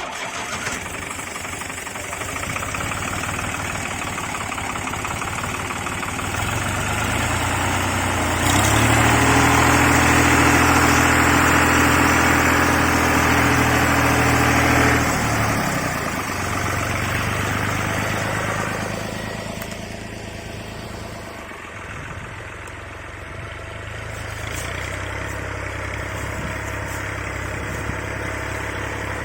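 Tractor engine running steadily. It grows louder for several seconds about a third of the way in, falls back around the middle, eases lower again briefly, and then runs on steadily.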